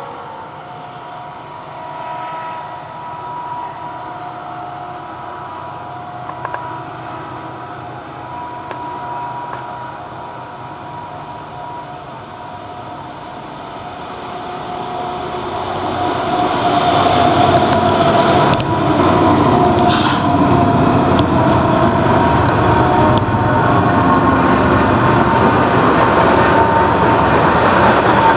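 Freight train approaching, faint at first, then growing much louder from about halfway as it arrives and its cars roll past with steady wheel-on-rail noise. There is a sharp clank about two-thirds of the way in.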